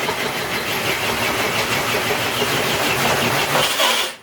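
Electric RC crawler truck's motor and drivetrain running hard under load as it drags a weighted sled across concrete, a dense noise full of rapid chattering. It cuts off abruptly just before the end.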